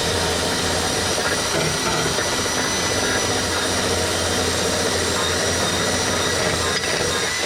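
Handheld electric power tool running steadily under load, cleaning the car's exhaust pipe ahead of welding: a rushing grind with a steady high whine.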